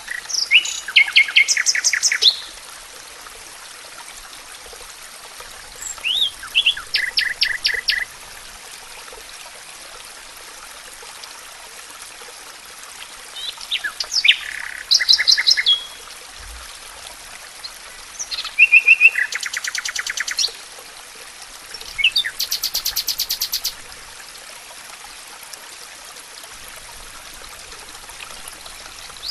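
Songbird song in the forest: five phrases of quick repeated high notes and short glides, a few seconds apart, over a steady background hiss.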